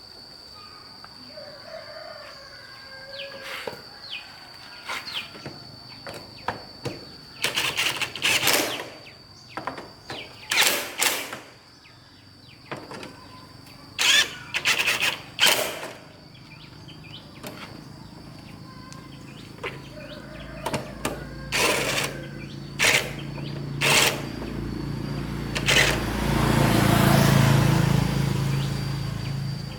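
Sharp knocks and clicks, then an engine running, growing louder to its loudest about four seconds before the end.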